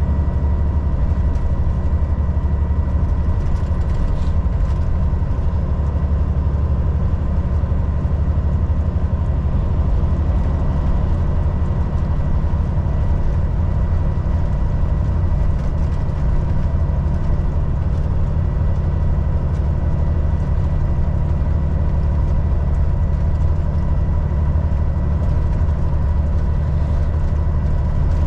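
Volvo VNL 760 semi truck driving at a steady pace: a low, even engine drone with road noise and a thin steady whine over it.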